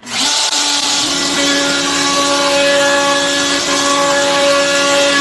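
CNC router spindle cutting into wood: a steady whine over a loud, dense cutting hiss, starting abruptly.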